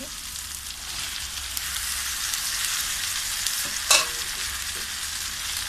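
Sliced onions sizzling steadily in hot oil in a wok as chopped tomatoes are tipped in, with one sharp knock about four seconds in.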